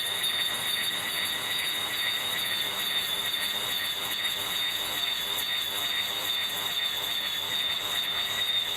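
Electric grass trimmer running with a steady high-pitched whine over the hiss of cutting.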